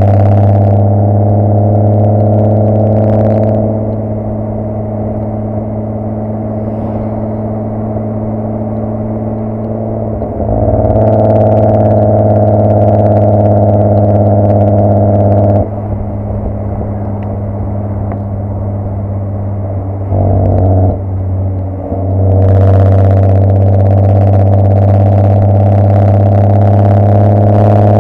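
Volkswagen Golf R32's 3.2 VR6 engine through a decat, non-resonated Milltek exhaust, heard at the tail of the car while driving, very loud. The engine speed stays fairly steady while the exhaust note swells under throttle and drops back off throttle several times, with a short blip about twenty seconds in.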